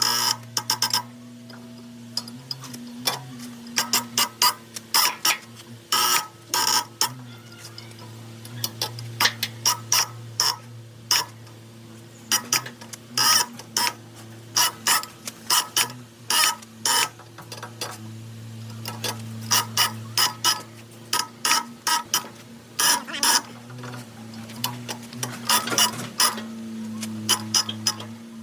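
Sharp metallic clicks and taps, single and in quick clusters, from metal parts and hand tools being worked during the machine's restoration, over a steady low hum.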